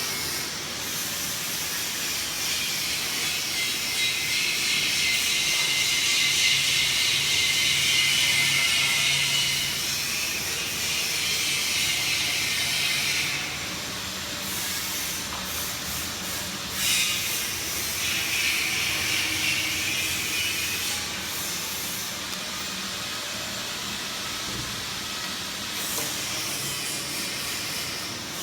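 PVC flexible duct forming machine running with a steady hiss, which cuts out briefly a few times and comes back.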